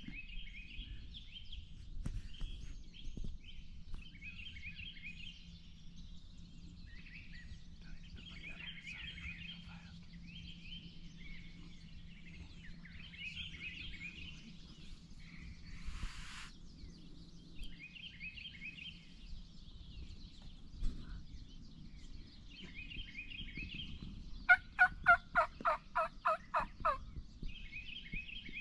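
Wild turkeys gobbling again and again, a rapid warbling rattle every couple of seconds. Near the end comes a loud, even run of about a dozen turkey yelps, about five a second.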